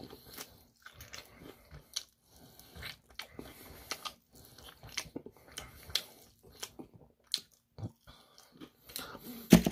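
Close-up biting and chewing of crispy Korean fried chicken, with irregular crunches of the fried coating.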